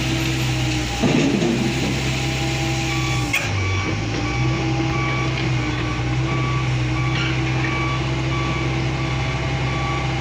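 A heavy machine's engine running steadily, with a brief louder rumble about a second in. From about three seconds in, a reverse alarm beeps at an even pace, roughly two beeps a second.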